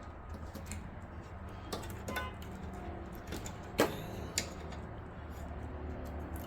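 Plastic clicks and handling noises as power cables are plugged into a graphics card, with one sharp click about four seconds in and a smaller one just after, over a steady low hum.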